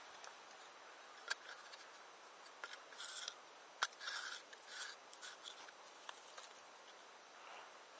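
Faint campfire with two sharp pops, and a few short scraping or rubbing sounds in the middle.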